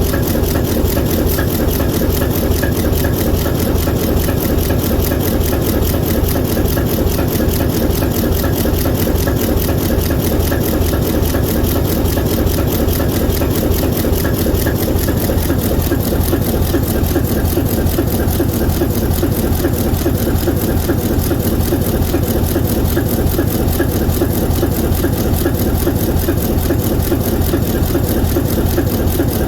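ALCO 539T turbocharged inline-six diesel prime mover of an ALCO S4 locomotive running steadily at one constant speed, with an even, unchanging beat.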